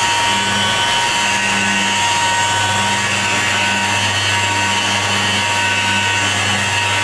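A power tool running continuously, a steady whine over hiss and low hum with no break.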